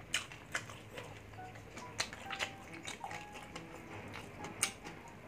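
Close-up chewing of crispy fried pork belly (bagnet): irregular crackling crunches of the fried skin, a couple a second.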